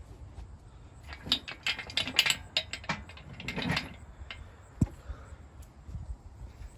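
Ratchet wrench clicking in quick, uneven runs while working a fastener, then a single sharp metallic knock about five seconds in.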